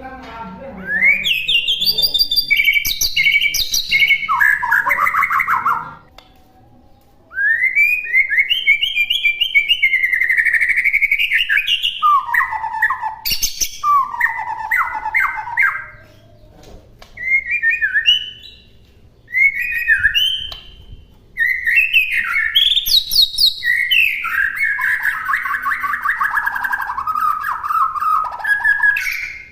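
White-rumped shama (murai batu) singing a loud, varied song of sliding whistled phrases and rapid trills, full of imitations of other birds, with short pauses between phrases.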